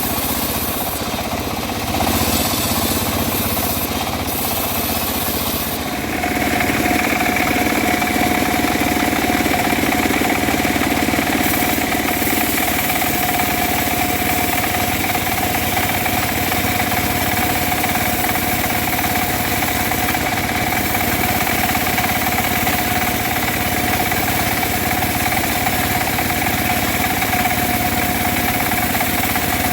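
Homemade bandsaw mill running steadily, with a few knocks in the first few seconds. About six seconds in, a steady high whine sets in and holds.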